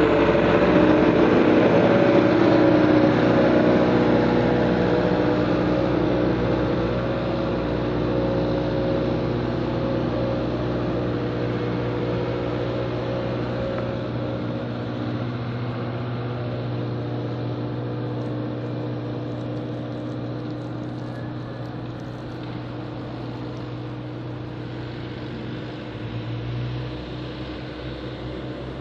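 Engine of a snow-clearing work vehicle running steadily, growing gradually quieter as it moves off, with a brief rise in engine speed near the end.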